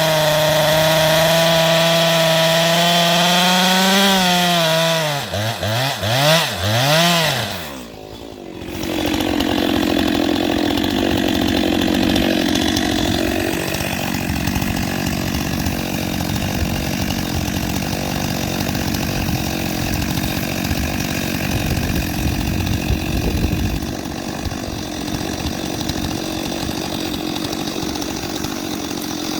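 Two-stroke chainsaw running at full throttle at a steady pitch, then revving down and up several times with a wavering pitch before dropping off briefly about 8 seconds in. Chainsaw noise then picks up again, rougher and less pitched, and carries on steadily through the rest.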